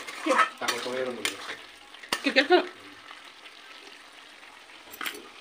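Chicken pieces frying in spiced oil in a kadai on a gas burner, with a steady sizzle and a few short sharp clicks.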